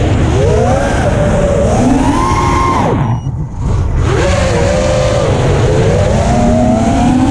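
FPV racing quadcopter's brushless motors and propellers whining, the pitch rising and falling with the throttle. The throttle is cut for about a second near the middle, then the whine comes back and climbs again. Wind rumbles on the onboard microphone throughout.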